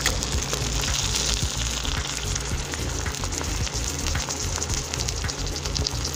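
Raw chicken frying on sliced onions in a hot pan: a steady sizzle full of fine crackling.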